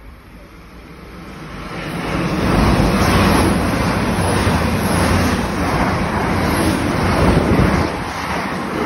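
Passenger train passing through the station at speed without stopping. The rush of wheels and air builds over the first couple of seconds, stays loud, and begins to fade near the end.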